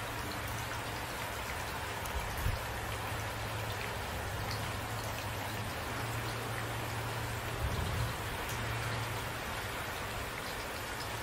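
Steady, even rainfall. Two brief low thumps come through, about two and a half seconds in and again near eight seconds.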